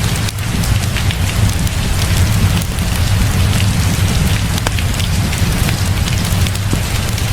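Heavy rain falling steadily, with a strong low rumble beneath it, mixed with a wood fire crackling in scattered sharp pops.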